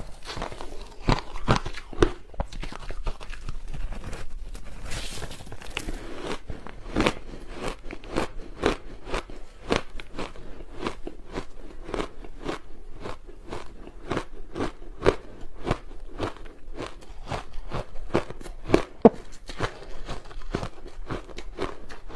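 A person biting into and chewing hard chunks of reshaped ice, a steady run of sharp crunches and cracks, about two or three a second.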